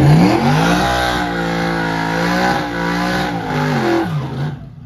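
Drag car's engine revved up hard and held at high revs with a few small dips, as in a burnout. It then drops, flares once more, and cuts off suddenly near the end.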